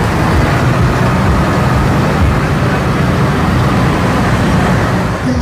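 Modified pulling tractor running flat out under load during a pull, a loud, dense, steady engine sound with no let-up.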